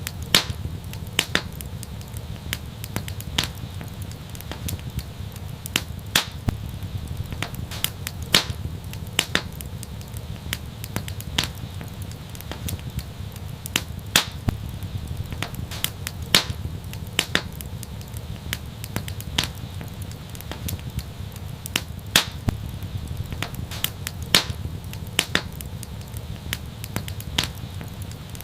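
Wood fire crackling in an outdoor fireplace: irregular sharp pops and snaps, several a second, over a steady low rumble.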